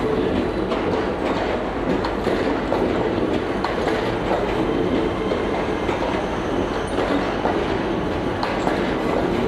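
Hitachi Class 800 intercity train rolling past a station platform at low speed: a steady rumble of wheels on rail, with faint irregular clicks as the coaches go over rail joints.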